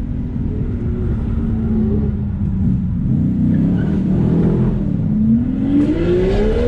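Car engine running steadily under way, then revving up from about five seconds in, its pitch climbing steeply as the car accelerates.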